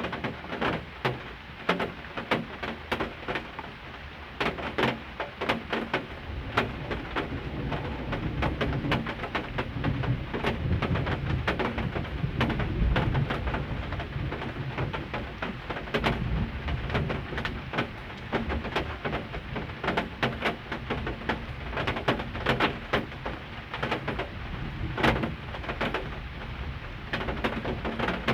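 Heavy rain falling, with many sharp drops and drips hitting close by, and a low rumble of thunder swelling and fading about ten to sixteen seconds in.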